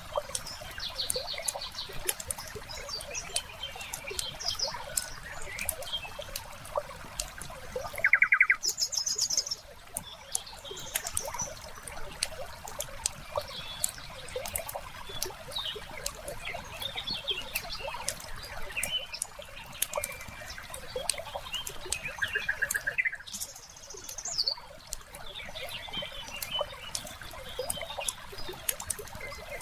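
Wood fire crackling steadily with many small pops, layered with bird chirps and short trills; the loudest calls come about eight seconds in and again about twenty-three seconds in.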